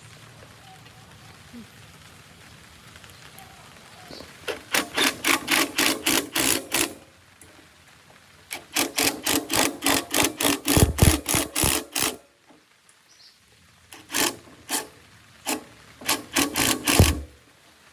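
Rapid, evenly spaced mechanical strokes, about five a second, in three runs of a few seconds each with short pauses between, with a few heavier thuds inside the later runs.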